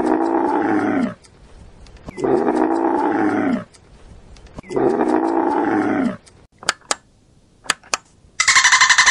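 A large animal roars three times, each call about a second and a half long and sinking in pitch, with short pauses between. Then come a few sharp clicks, and near the end a higher, shrill call begins.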